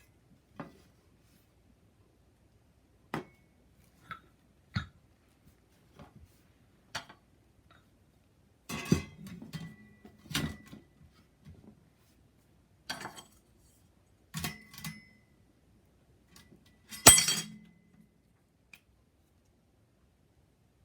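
Metal parts of a homemade tower-type fire pit clinking and clattering as they are handled, in separate knocks, some with a brief ring, and the loudest clatter near the end.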